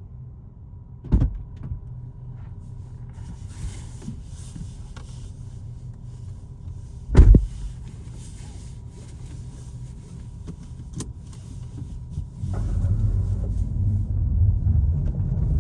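Volkswagen Golf 7 heard from inside while it moves, a steady low rumble with two sharp knocks about six seconds apart, the unexplained knock from the rear. The rumble grows louder near the end.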